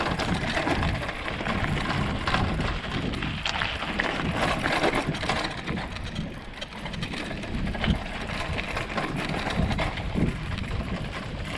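Bicycle riding over rough ground: a continuous rushing of wind and tyre noise with frequent small knocks and rattles, a sound that the riders themselves wondered might be flowing water.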